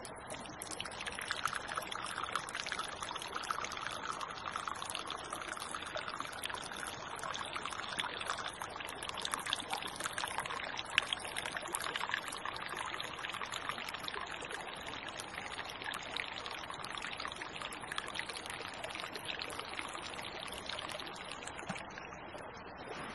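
Water of a small creek trickling and splashing steadily, with many small splashes; it starts and stops abruptly.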